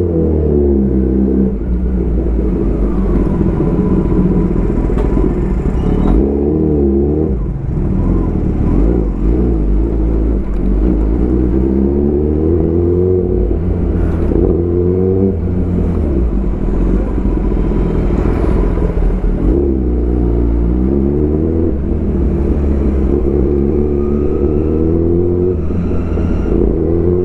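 Kawasaki ZX-10R's inline-four engine through an Arrow full-system exhaust, heard from the rider's helmet as the bike rides through town, its pitch repeatedly climbing under acceleration and dropping at each shift or roll-off. A steady low rumble sits underneath.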